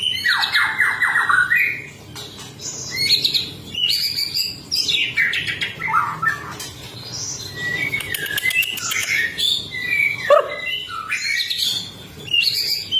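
White-rumped shama (murai batu) singing a long, varied song: sliding whistles, quick repeated notes and chattering phrases, with short breaks between phrases. A rapid rattle-like phrase comes right at the start, and a note dropping steeply in pitch about ten seconds in.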